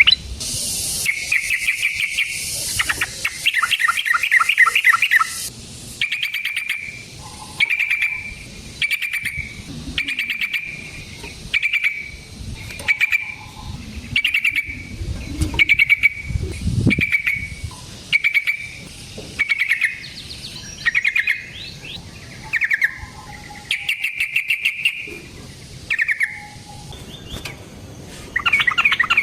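Yellow-vented bulbul calling: rapid chattering bursts in the first few seconds, then short bubbling phrases repeated about once a second, with another chattering burst shortly before the end.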